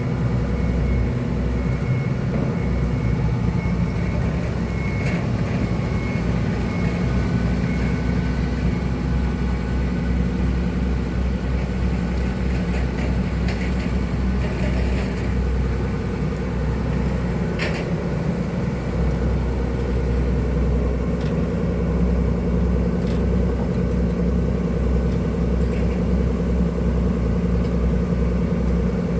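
Excavator diesel engine running steadily, with a few sharp knocks partway through.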